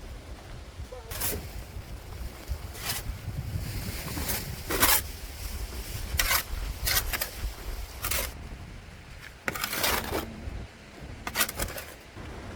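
A series of about eight short scraping or swishing strokes at uneven intervals, over a steady low rumble of wind on the microphone.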